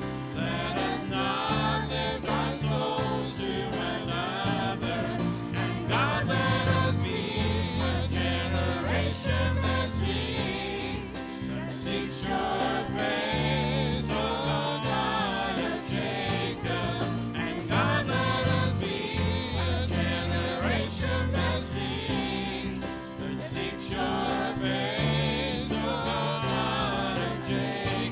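Worship song: voices singing with vibrato over instrumental accompaniment with sustained bass notes.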